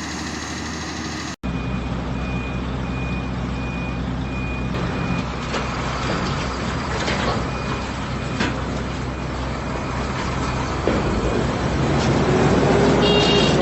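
A heavy vehicle's engine running steadily while its reversing alarm sounds a short, high-pitched beep about every second, with a pause in the middle.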